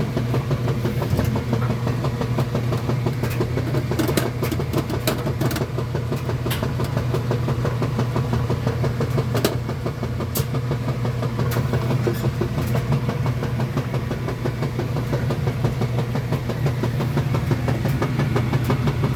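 Kenmore washing machine running mid-wash: a steady low motor hum with scattered light clicks and knocks.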